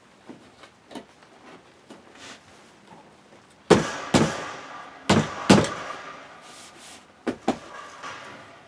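Sharp metal knocks and clanks from parts being worked on, in three loud pairs about half a second apart with lighter taps between. The loudest ones ring briefly.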